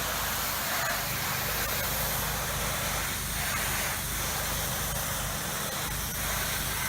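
Soft-wash sprayer putting a low-pressure stream of soap onto house siding: a steady spray hiss over the constant low hum of the machine.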